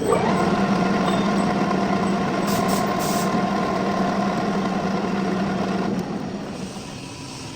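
Metal lathe running with a steady hum. It comes on suddenly and falls off in level about six seconds in.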